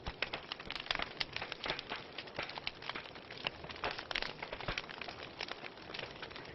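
Wood fire crackling in a fireplace: many quick, irregular pops and snaps over a soft steady hiss.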